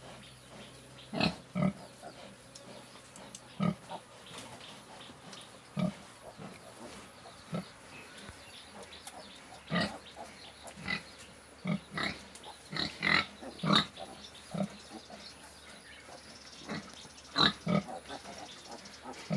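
A sow and her newborn piglets grunting in short calls at irregular intervals, busiest in the middle and again near the end.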